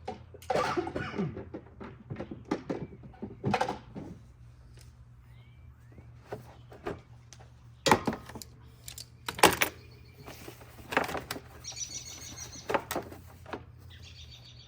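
Hand tools and metal ATV parts being handled during disassembly: scattered clicks and knocks, two sharp clanks about eight and nine and a half seconds in, and a short rapid rattle near the end.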